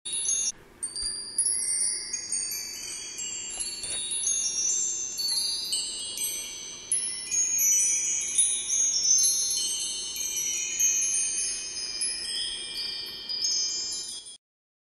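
Chimes ringing: many high, bell-like tones overlapping and fading, cutting off suddenly near the end.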